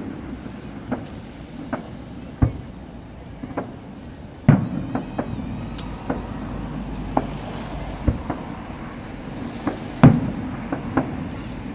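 Fireworks going off: irregular sharp bangs and cracks, the two loudest about four and a half and ten seconds in, each with a low rumbling tail.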